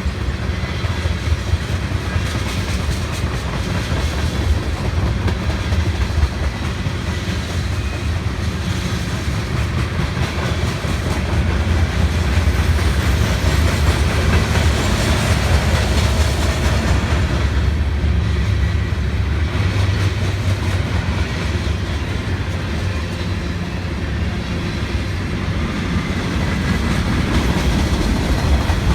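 A long freight train's cars rolling steadily past, a continuous rumble with the wheels clacking over the rail joints.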